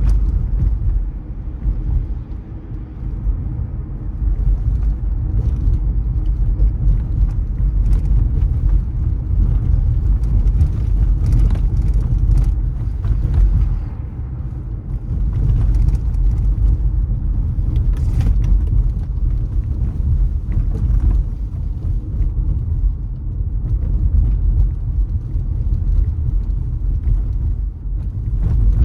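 Car driving, with a low, steady road and engine rumble and a few faint clicks and knocks over it.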